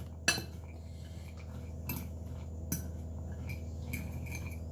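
Stirring a sticky mix of chopped dried fruit, egg and seeds in a bowl, with scattered clinks of the utensil against the bowl.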